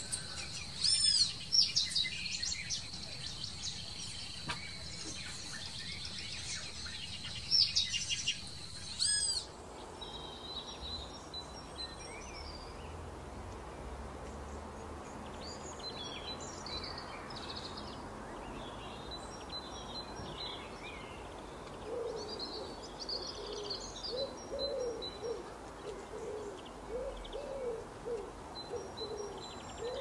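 Birds calling: loud whistled calls over a steady high insect-like drone for the first nine seconds or so. The sound then changes abruptly to softer, scattered high chirps. From about two-thirds through, a low hooting call repeats about once a second.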